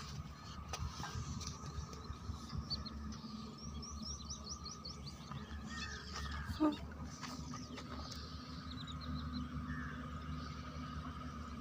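Small birds chirping, with a run of quick falling chirps a few seconds in and shorter runs later, over a steady low rumble and a faint steady hum. One short, louder sound comes a little past halfway.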